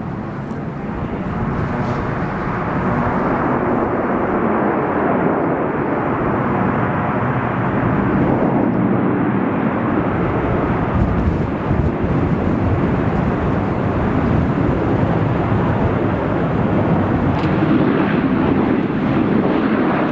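Airliner engines running loud with a dense, even noise, building over the first few seconds and then holding steady.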